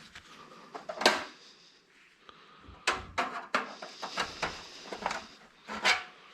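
Scrap parts being worked apart by hand: a run of scattered sharp clicks, knocks and clatters, the loudest about a second in, around three seconds in and shortly before the end.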